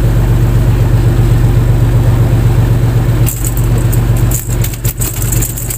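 Fishing boat's engine running steadily with a loud, low hum. From about halfway, irregular sharp clicks and rattles come over it.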